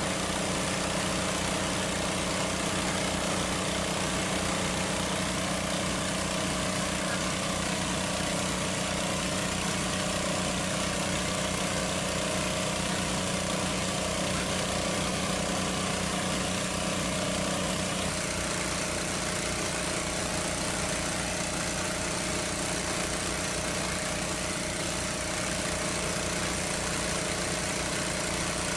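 Small engine running steadily at a constant speed, its tone shifting slightly about 18 seconds in.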